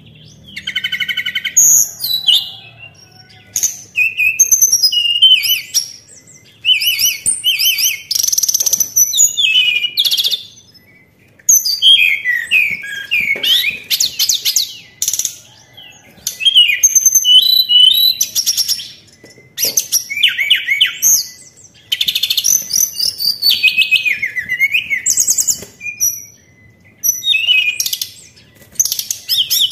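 Tledekan songbird singing repeated phrases of quick chirps, slurred whistles and rapid trills, each phrase a second or two long with short pauses between. It is a lure-call recording of the kind played to make a kept tledekan answer and sing.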